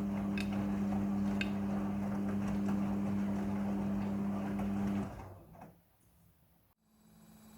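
Midea front-loading washing machine running with a steady hum and light scattered clicks from the drum, then winding down and stopping about five seconds in.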